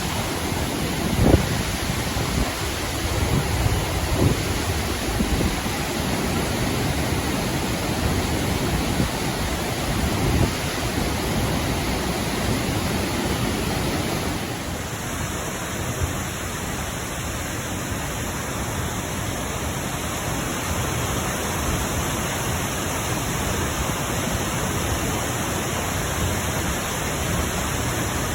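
Steady rushing noise of a waterfall, with a few low thumps in the first few seconds; it drops slightly in level about halfway through.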